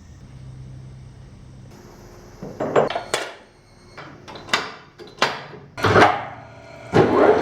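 A run of metal knocks and clanks in a workshop, about six in four seconds, each ringing briefly. Near the end a machine tool starts running with a loud steady noise.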